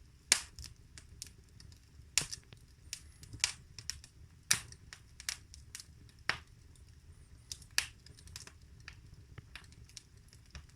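Fire burning in a fireplace, crackling with irregular sharp pops, a few louder ones standing out, over a low steady rumble of the flames.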